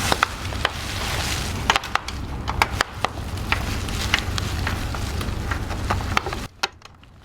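Irregular clicks and knocks of hand tools working on parts, over a steady low hum. The hum and knocks drop away abruptly near the end.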